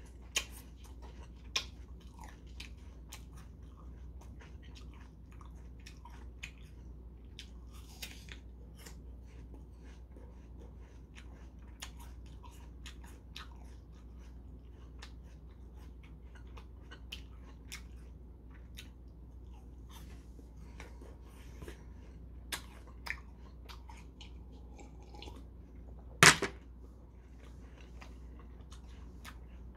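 A man biting and chewing crisp apple slices close to the microphone, a string of small crunches and mouth sounds over a steady low hum. One sharp knock near the end is the loudest sound.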